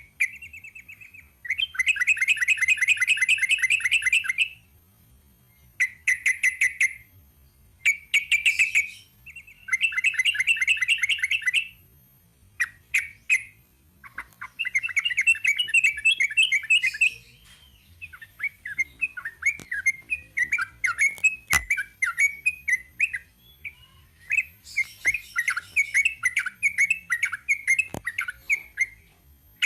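Yellow-vented bulbul (trucukan) singing: phrases of rapid, evenly repeated bright notes lasting one to three seconds, separated by short pauses, loosening into choppier chirping phrases in the second half.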